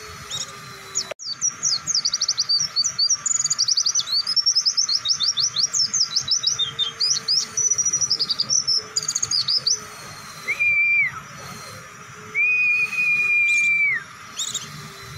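Oriental white-eye (pleci) singing a long, rapid run of high chirping notes for about eight seconds: the extended 'ngebren' burst song used to train caged birds. Near the end come two flat, held whistles, a short one and then one about a second and a half long.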